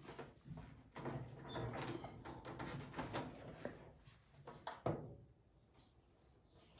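Irregular clicks, rattles and knocks of a battery charger being unplugged and disconnected by hand, with one louder clunk about five seconds in.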